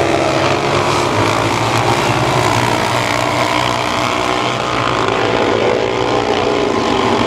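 Several mini sprint race cars' engines running hard together in a dirt-track race, a steady dense engine noise with pitches bending up and down as the cars go round.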